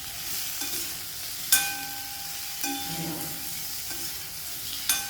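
Ridge gourd and potato frying in oil in a pan with a steady sizzle, while a metal spatula stirs and knocks against the pan, giving a few ringing clinks; the loudest comes about a second and a half in, another near the end.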